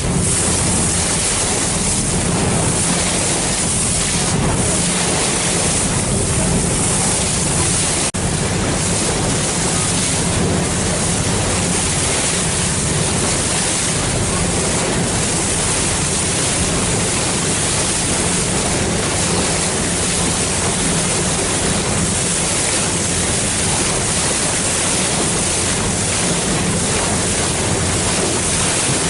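Steady rush of wind on the microphone and water noise aboard a moving harbour ferry, with a low hum underneath.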